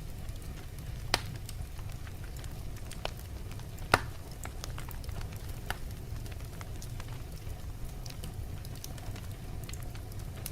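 Wood fire in a fireplace burning with a steady low rumble and scattered crackles. Sharp pops stand out about a second in and about four seconds in.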